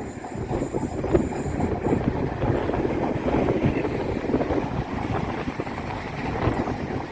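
A train running through the station, its rumble mixed with heavy wind buffeting on the phone's microphone.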